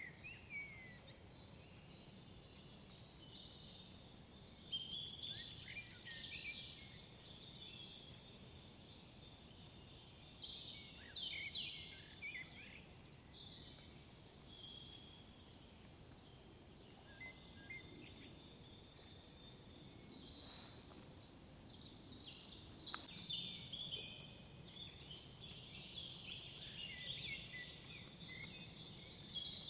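Several songbirds singing in woodland, with overlapping chirps and calls, one bird repeating a high, rising trilled phrase every six to eight seconds.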